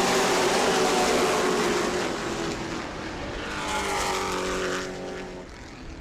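A field of Pro Truck short-track race trucks accelerating hard on a restart, with several engines running together. The sound is loudest for the first two seconds and then fades, and near the four-second mark another truck's engine note rises and falls in pitch as it passes.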